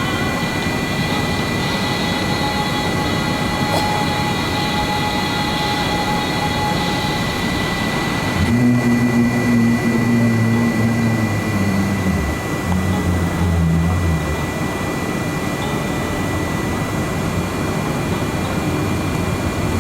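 Steady jet-engine and airflow noise inside the cabin of a McDonnell Douglas MD-11 airliner. About eight seconds in, a louder low hum joins for some six seconds, changing pitch in steps.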